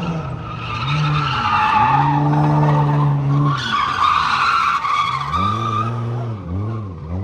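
Car tyres squealing as a car spins its wheels under power, with the engine note held steady, then revved up and down several times near the end.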